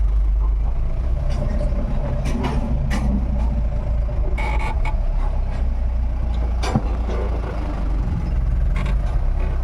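Mahindra pickup's engine running steadily with a deep low rumble, with a few short clicks and rattles over it.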